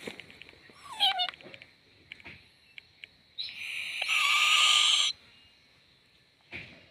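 Baby owl calling: a short call gliding downward about a second in, then a loud, harsh screech lasting nearly two seconds in the middle.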